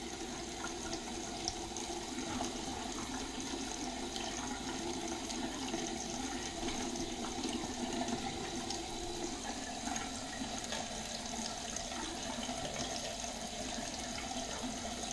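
Bathroom sink faucet running steadily, the water draining away freely now that the clogged drain line has been cleared with a plumbing snake.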